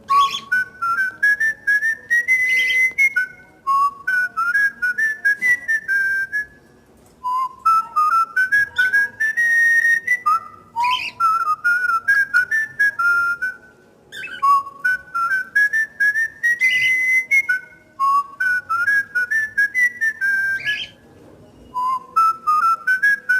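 Cockatiel whistling a learned tune over and over: seven near-identical phrases of clear notes, each climbing in steps to a held high note, with short pauses between.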